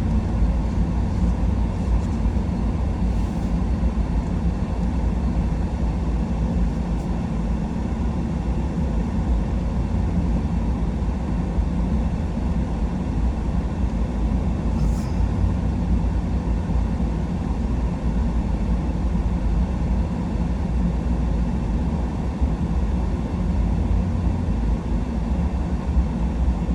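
Steady low rumble of a 4x4 pickup truck driving, engine and tyre noise with no change in pace.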